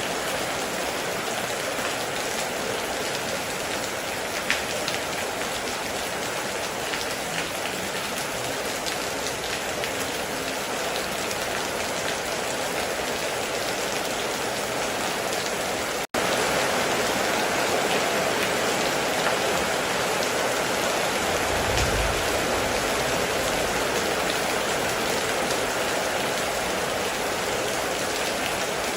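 Heavy, steady rain pattering on a surface. The sound cuts out for an instant just past halfway and comes back slightly louder. A short low rumble follows a few seconds later.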